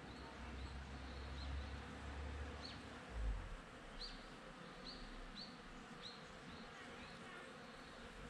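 Honeybees buzzing among cherry blossoms, with a run of short high chirps in the second half. There is a thump about three seconds in.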